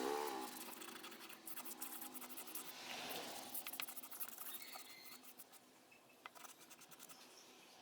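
Faint scratching and scraping with scattered small clicks, from hand work on the old air pump's parts. The scratching is strongest in the first few seconds and thins out after about five seconds. A humming tone fades out right at the start.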